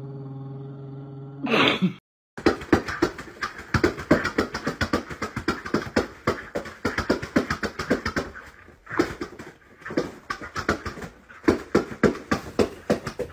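A dog spinning around on carpet, with a fast irregular run of short thumps and clicks, several a second, and a brief pause about nine seconds in. Before it, a low held note ends in a short burst.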